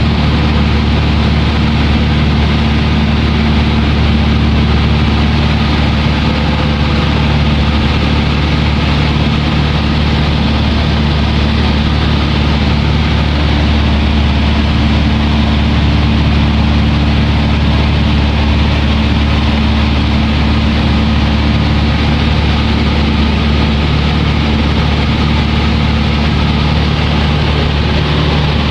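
Propeller aeroplane's engine droning steadily in cruise, heard loud from inside the cabin, with a deep, even hum.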